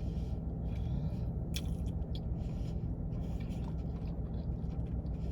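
Close-up mouth sounds of chewing a sub sandwich: soft wet smacks and small crunches of bread and lettuce, with a sharper bite about a second and a half in, over a steady low hum.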